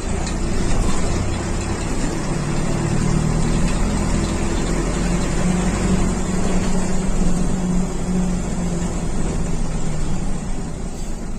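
Mercedes-Benz OF 1721 bus's diesel engine running with a steady low drone, which grows stronger from about two seconds in and eases off near the end.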